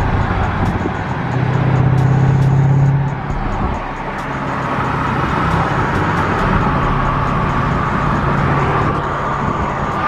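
Jeep SRT's engine heard from inside the moving vehicle, pulling hard for the first few seconds and easing off about three seconds in. It then pulls again with a whine that slowly rises in pitch.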